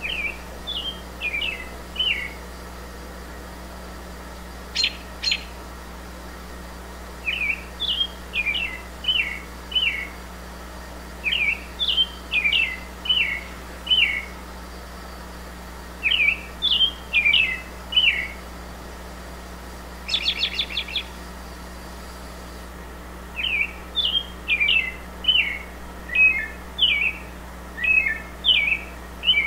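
A songbird singing repeated phrases of four to six quick down-slurred whistles, a new phrase every couple of seconds with short pauses between. A few sharp chips and, about two-thirds of the way through, a brief rapid chattering rattle.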